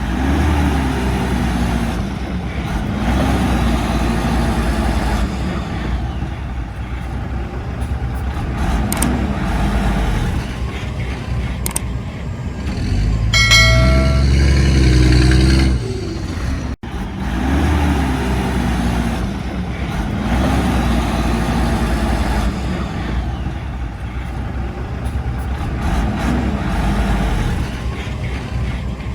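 Diesel engines of heavy earthmoving machinery running, the pitch rising and falling every few seconds as they work under load. About halfway through comes a brief high squeal, followed by the engine running louder for a couple of seconds.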